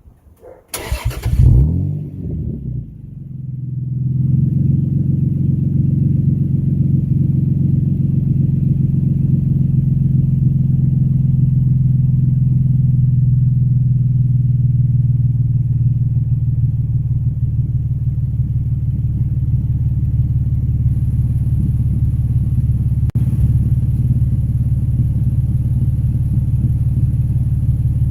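Toyota Supra's naturally aspirated 2JZ-GE straight-six, through an Apexi N1 exhaust, started up: a short burst as it cranks and catches about a second in, then it settles into a steady, deep idle.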